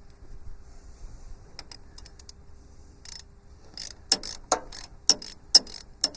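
Hand tools clicking and clinking against metal. The sound is sparse at first, then a run of sharp, irregular clicks in the second half.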